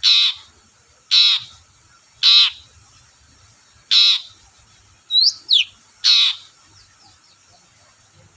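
Long-tailed shrike (cendet) giving five short harsh calls about a second or two apart, with a quick pair of thin whistled notes, one rising and one falling, just after the fifth second.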